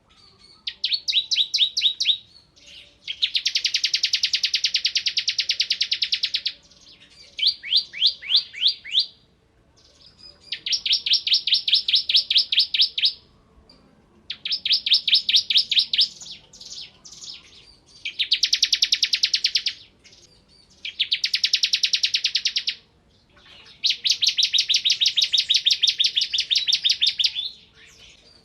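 Bar-winged prinia (ciblek kristal) singing loudly in rapid trilled bursts. Phrases of fast repeated notes, one to four seconds long, alternate with brief pauses; some are spaced, ticking series and others are dense buzzing rattles.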